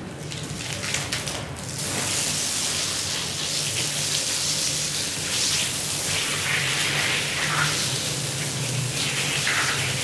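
Water spraying and splashing onto a wet rug, a dense rain-like hiss that gets louder about two seconds in, over a steady low motor hum.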